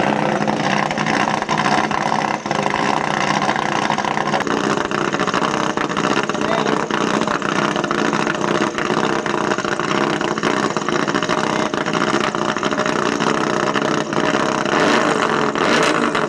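Rally car engine running steadily at low revs, its note changing about four seconds in.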